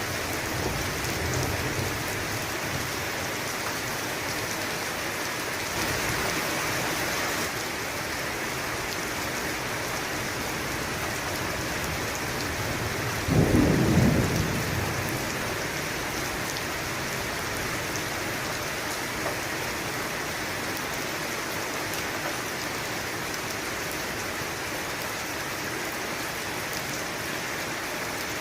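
Steady rain pouring down, with a loud clap of thunder about halfway through that rumbles for a second or two. A fainter low rumble of thunder comes near the start.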